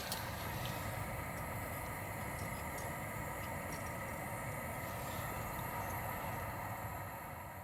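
Train running past, a steady rumble with a faint even hum over it and a few small clicks about a second in.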